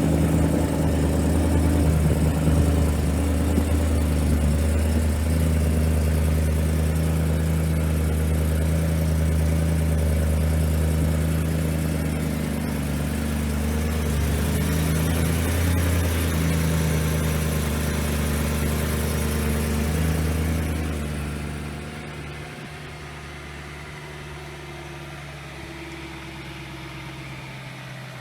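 BMW E92 M3's S65 4.0-litre naturally aspirated V8 idling at a steady speed. About three-quarters of the way through, the engine sound drops away sharply and a much quieter hum remains.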